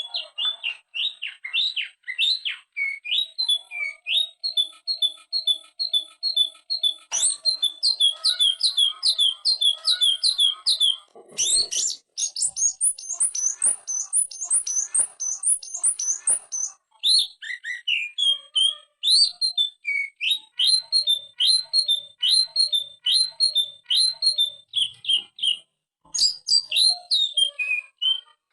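Green leafbird (cucak ijo) singing loudly and without pause in long strings of short, sharp whistled notes, the staccato "ngentrok" style mixed with varied borrowed phrases ("isian"). From about 11 to 16 seconds in, a run of higher, harsher notes with clicks breaks in, before the lower whistled series returns.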